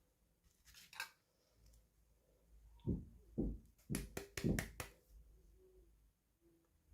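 Hands handling small plastic toy packaging: a few scattered clicks, then a quick cluster of about six clicks and soft knocks around the middle.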